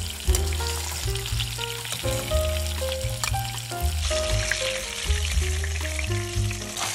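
Food sizzling and crackling as it fries in hot oil in a pan, under background music with a heavy bass line.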